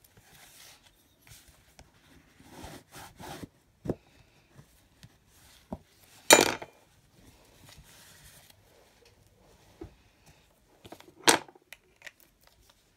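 Paper and card being handled on a craft desk: soft rubbing and rustling, with a few sharp knocks of things being set down, the loudest about six seconds in and again about eleven seconds in.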